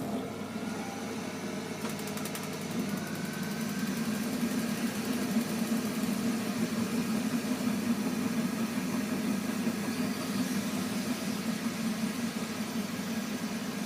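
Heating boiler droning: a steady low hum that comes on at the start and swells slightly over the first few seconds.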